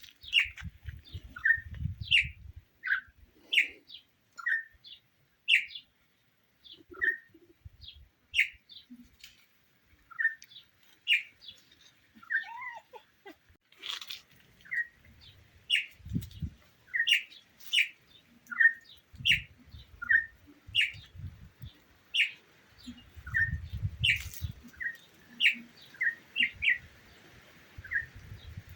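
A bird calling with short, sharp chirps repeated about once or twice a second, many of them dropping in pitch. Low rumbles come and go underneath.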